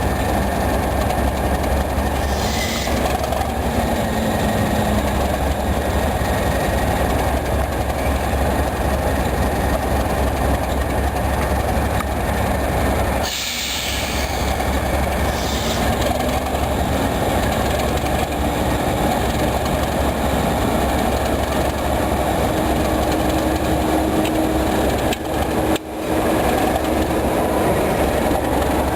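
Class 37 diesel locomotives hauling a test train: a loud, steady locomotive engine note mixed with wheels running on the rails. The level dips briefly twice, about halfway and near the end.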